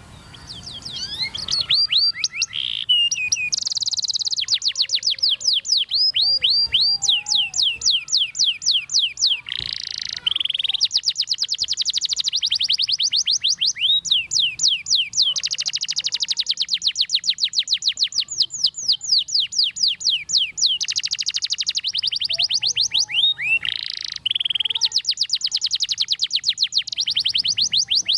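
Domestic canary singing a long, nearly unbroken song: fast rolling trills of rapidly repeated high notes, mixed with runs of notes that sweep down in pitch.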